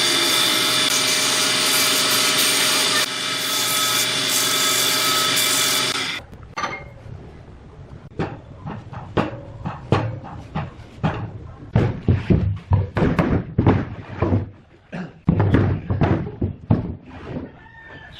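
A woodworking power tool runs steadily with a high whine and cuts off suddenly about six seconds in. Then comes a long, uneven series of sharp knocks on wood, one or two a second, the kind made by hand tools striking a workpiece during joint-making.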